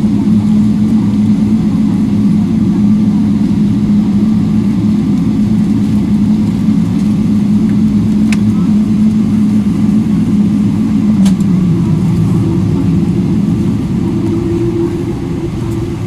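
A vehicle running with a loud, steady low hum. About three-quarters of the way in the hum drops in pitch, a higher hum comes in, and the sound eases off slightly near the end.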